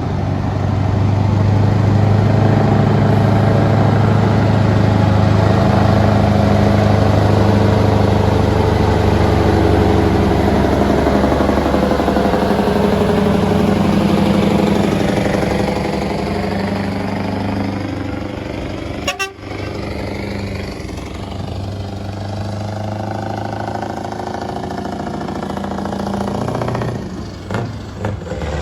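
Scania lorry's diesel engine running under load with a deep, steady snore, loudest over the first half and easing down a little past the middle.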